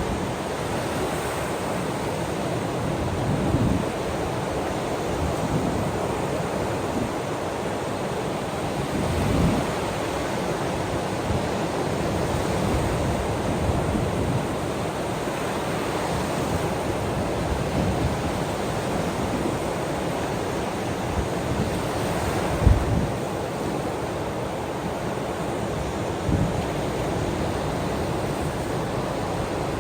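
Ocean surf washing steadily, with a few short low thumps; the loudest comes about three-quarters of the way through.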